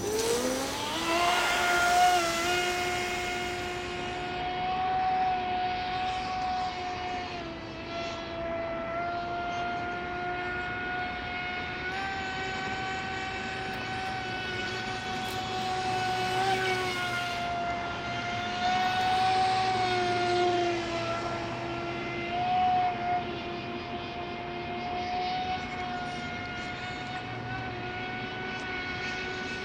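Electric motor of an HK Pursuit RC boat (ADS500M, water-cooled) running at speed: a high whine that winds up in pitch in the first second, then holds steady with small dips in pitch, over a rush of noise.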